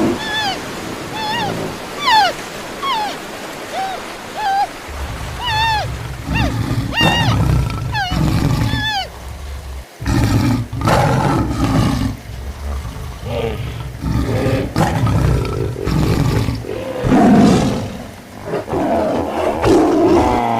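Wild-animal sound effects: about five seconds of short, curving high calls, then repeated roars over a low rumble.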